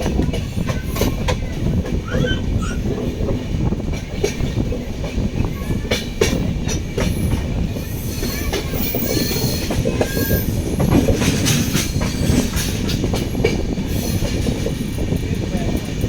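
Coaches of a departing express passenger train rolling along the track with a steady rumble. Wheels click over the rail joints, and there are brief, scattered wheel squeals.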